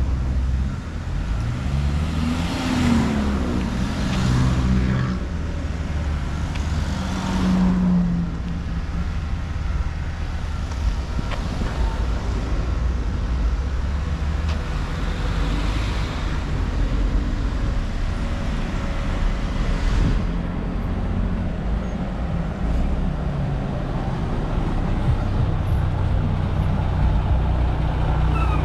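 Road traffic: motor vehicle engines running and passing close by over a steady low rumble. Engine pitch rises and falls several times in the first eight seconds or so, then settles into a steadier hum.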